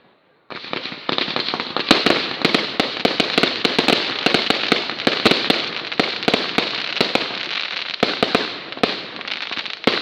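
Fireworks going off: a dense stream of crackling pops with many sharp bangs mixed in, starting abruptly about half a second in.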